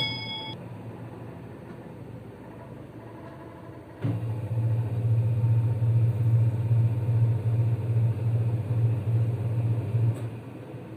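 Single-tub washing machine's motor switching on with a click about four seconds in, running with a steady low hum for about six seconds, then clicking off.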